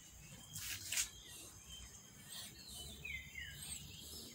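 Faint outdoor ambience with a few small bird chirps, short falling and arching whistles around the middle and end. About a second in there is a brief hissing noise, the loudest sound.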